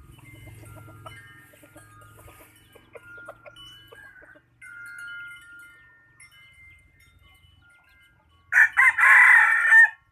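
Decoy junglefowl cock crowing once, a single loud crow of just over a second near the end, preceded by faint clucks and thin high calls.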